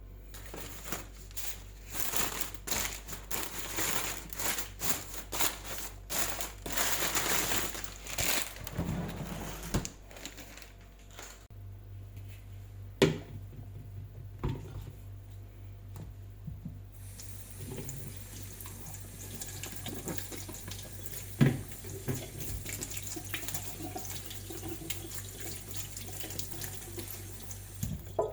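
Kitchen tap running into a sink, splashing for about the first ten seconds as something is washed or filled under it. Then quieter kitchen handling, with two sharp knocks.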